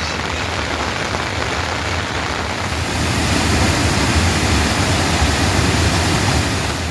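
Heavy rain falling: a dense, steady hiss that grows louder about three seconds in.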